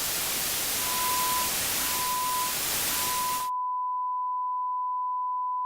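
A loud burst of white-noise static with a high beep sounding on and off through it. About three and a half seconds in the static cuts out abruptly, leaving one steady high tone.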